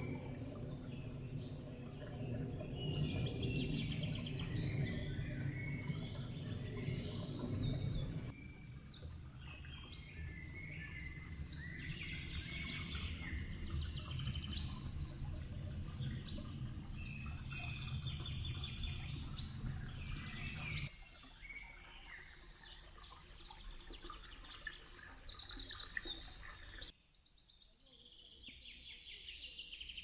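Woodland songbirds singing and chirping, many short high calls overlapping, over a low rumble that drops away in sudden steps about eight, twenty-one and twenty-seven seconds in.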